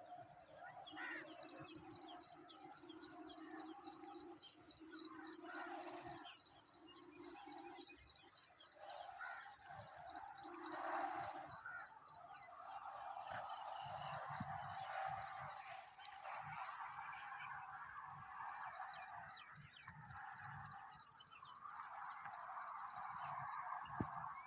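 Birds chirping and calling in faint morning ambience. A fast, high-pitched trill repeats almost without pause through most of it.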